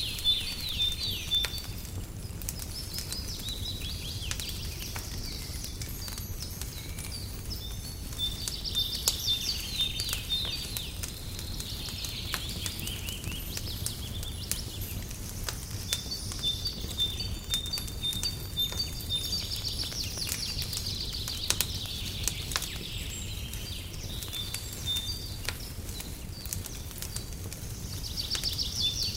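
Wood fire crackling with scattered sharp pops over a steady low rumble, while small birds chirp and trill repeatedly throughout.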